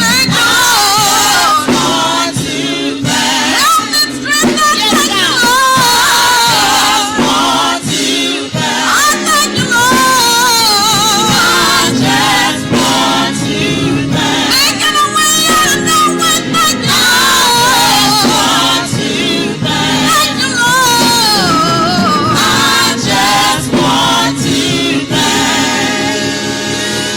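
Gospel choir singing with instrumental accompaniment, the voices sliding and wavering in pitch.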